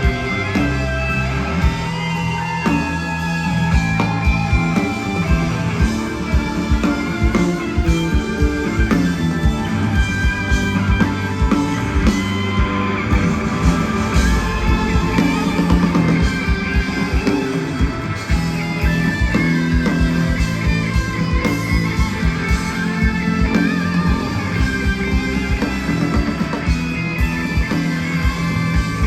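Live rock band playing through a concert sound system: electric guitars over bass and drums.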